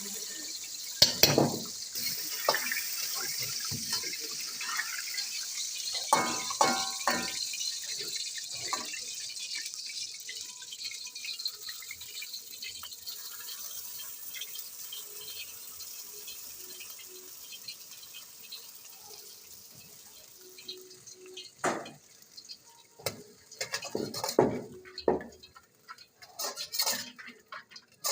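Water running from a tap into a sink, with scattered clinks and knocks of dishes and pots. The running water fades out after about twenty seconds, and a few louder knocks and clinks follow near the end.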